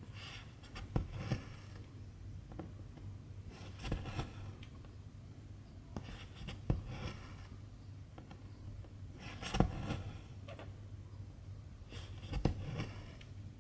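Needle and silk thread worked through cross-stitch fabric: a sharp click as the needle goes through, then the rasp of the thread drawn taut. This repeats about every two and a half to three seconds, five times, over a faint low hum.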